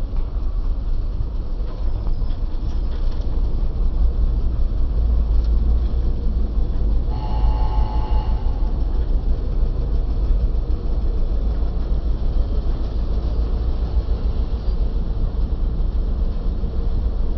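Passenger train running with a steady, loud low rumble. A short pitched tone sounds about seven seconds in and lasts about a second and a half.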